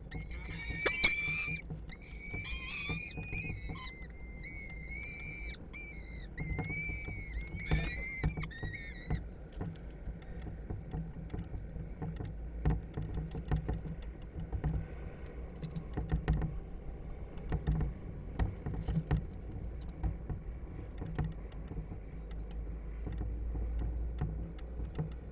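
Peregrine falcons calling at the nest: a run of repeated high, drawn-out calls over the first nine seconds or so, then a low rumble with scattered clicks and scrapes.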